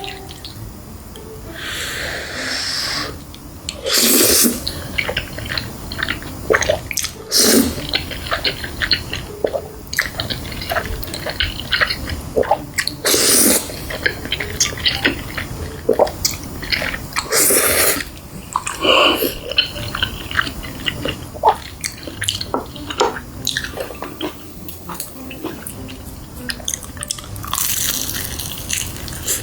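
Close-miked eating of Bburinkle fried chicken: loud crunchy bites every few seconds, with chewing and small wet clicks between them.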